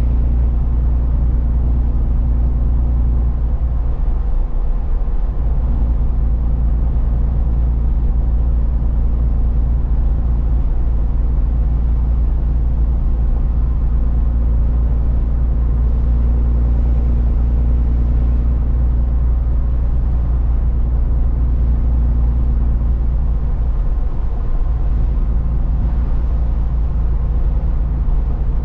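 A truck's engine and tyre noise while driving, a steady low drone. The engine note shifts briefly about four seconds in and again near the end.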